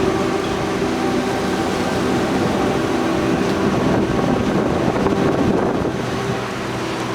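Wind-driven rain in a thunderstorm: a steady rushing noise of rain and gusting wind, easing slightly near the end, with a faint steady hum underneath.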